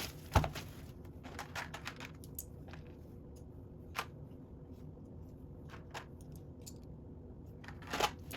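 Lego bricks being handled and pressed together: scattered sharp plastic clicks and light rustling of pieces, with a dull thump on the table about half a second in.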